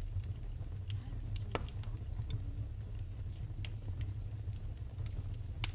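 Wood fire in a fireplace crackling, with a scatter of sharp pops, the loudest about one and a half seconds in and near the end, over a steady low rumble.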